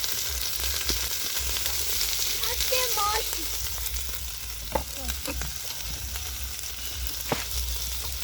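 Meat curry frying in a pot, a steady sizzle with a few short knocks.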